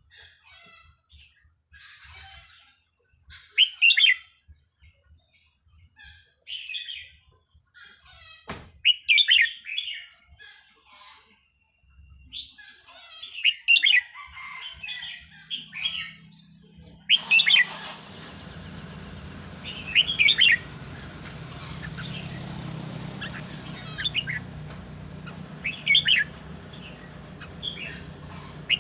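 Red-whiskered bulbul singing short, loud, warbled phrases every two to three seconds. Past the middle, a steady low hum and hiss run beneath the song.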